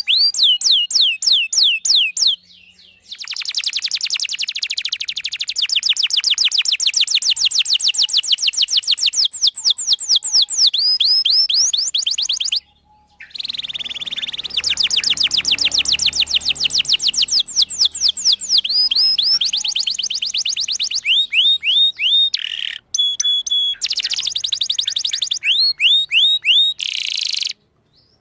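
Domestic canary singing a long song: fast rolling trills of repeated high chirps, phrase after phrase, with short breaks about two and a half, thirteen and twenty-three seconds in.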